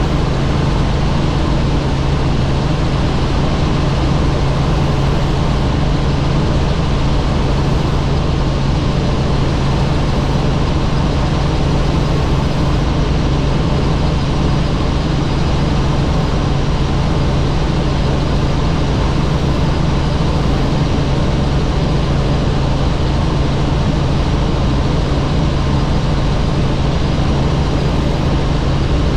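Helicopter in flight, its engine and rotors making a steady, loud drone with a strong low hum.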